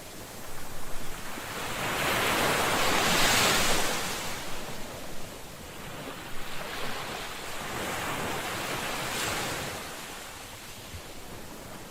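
Ocean waves washing ashore in a steady surging hiss. One large wave swells and breaks about two to four seconds in, followed by smaller swells.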